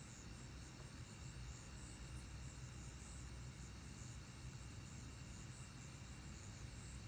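Faint night-time insect chorus, a steady high chirring with small repeated pulses, over a low steady rumble.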